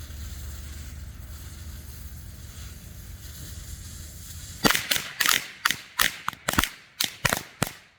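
A string of Red Lantern Lightning Cracker firecrackers: a steady hiss while the fuse burns, then about a dozen sharp bangs going off in quick, uneven succession, roughly three a second.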